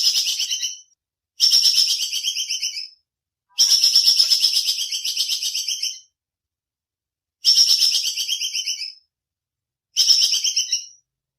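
Bursts of high-pitched, rapidly pulsed chirping trills from an animal, five in a row, each lasting one to two seconds and broken off by sudden silences.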